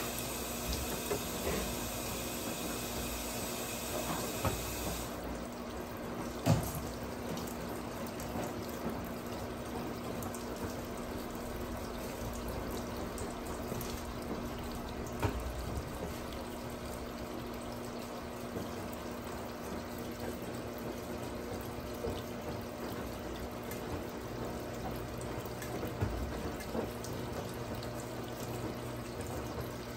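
Brastemp 17 kg washing machine filling: water runs steadily into the tub over a low, steady hum. A high hiss drops away about five seconds in, and there are a few light knocks, the clearest a little after six seconds.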